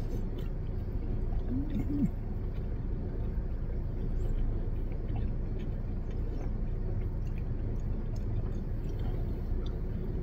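Steady low rumble inside a parked car, with faint chewing and small mouth clicks as two people eat sandwiches. A short hummed note, rising then falling, about one and a half seconds in.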